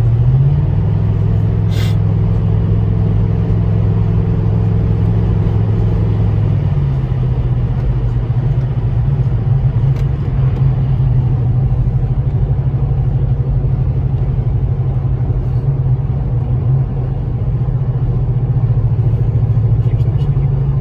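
Vehicle engine and road rumble heard from inside the cabin while driving, the engine note stepping up about half a second in and changing again around seven seconds in. A short click comes near two seconds in.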